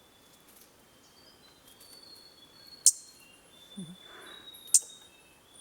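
Bellbird and hihi calling: long, clear whistled notes, with two sharp, loud clicks about two seconds apart.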